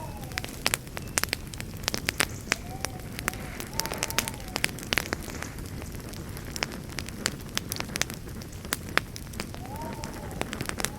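Campfire burning, wood crackling and popping in an irregular stream of sharp snaps over a low rumble of flame. A faint wavering whistle comes and goes a few times.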